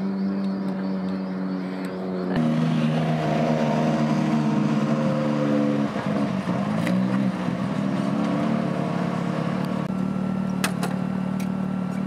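Side-by-side rally car's engine running at idle, its pitch dipping and rising briefly about six seconds in as the car pulls up and stops, then holding steady. A few sharp clicks near the end.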